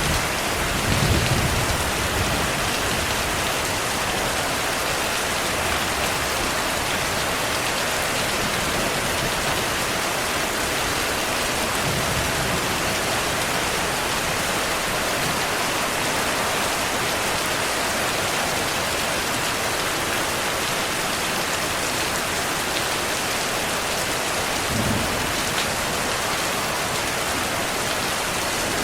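Steady rain falling, with low rumbles of distant thunder three times: about a second in, midway, and near the end.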